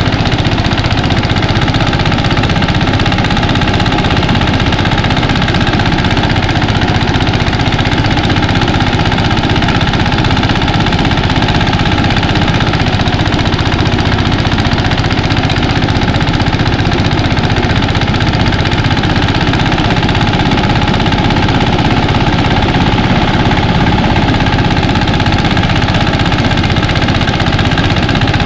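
Engine-driven mini rice thresher running steadily at a constant, loud level.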